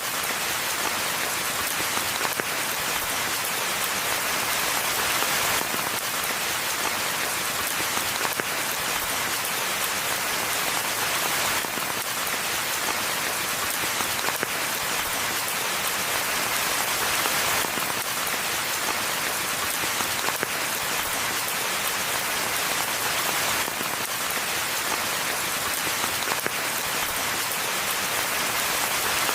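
Steady rain falling on a forest floor and leaves, an even hiss with scattered individual drop ticks.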